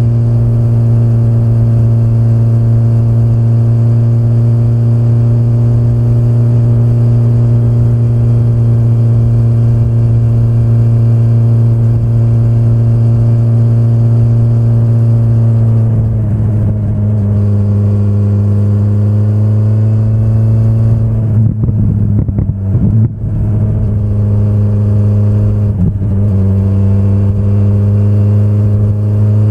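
BMW S1000RR inline-four motorcycle engine running at a steady speed, heard from the rider's seat. About sixteen seconds in the engine note shifts and wavers, dipping briefly a few times as the throttle changes, then settles into a steady note again.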